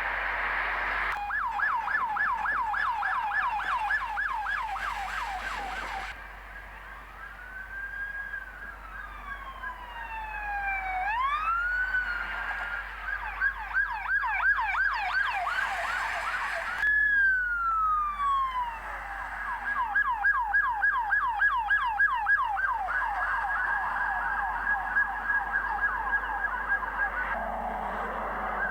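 Electronic police car siren switching between a fast yelp, about three sweeps a second, and a slower rising and falling wail. The changes are sudden, and around the middle a second siren glides over the first.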